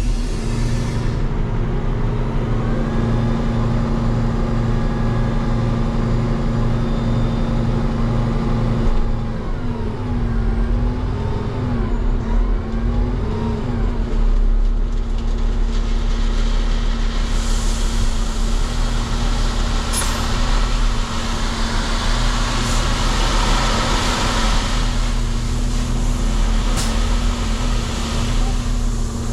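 Peterbilt 589 dump truck's diesel engine running steadily, with a wavering whine around the middle and a long hissing rush through the second half, broken by a couple of sharp clicks.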